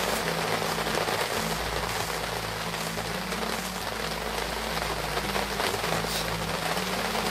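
Rain falling steadily on a vehicle's roof and windows, a dense even hiss, with a low hum underneath.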